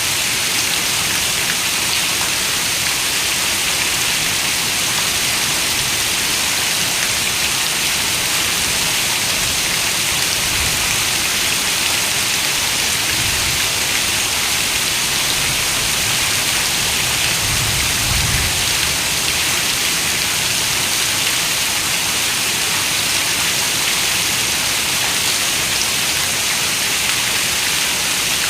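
Steady rain falling against a window: an even, unbroken hiss of rain.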